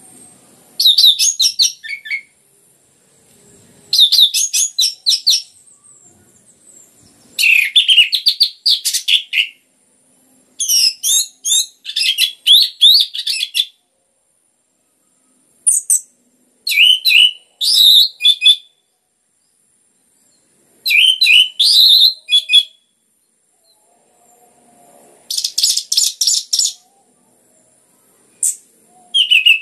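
Orange-headed thrush (anis merah) singing in full song: about nine loud phrases of quick, varied whistles and trills, each one to three seconds long, separated by short pauses.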